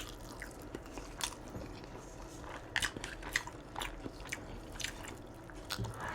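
A person chewing food close to the microphone: irregular mouth clicks and small crunches.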